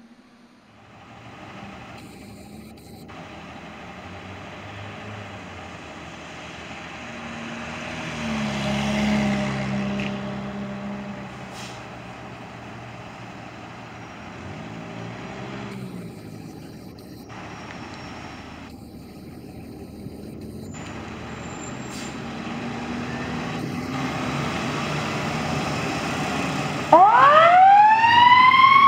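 Fire engine's diesel running with a steady rumble that slowly builds, then near the end its siren winds up, rising quickly in pitch to a loud, held wail as the truck responds.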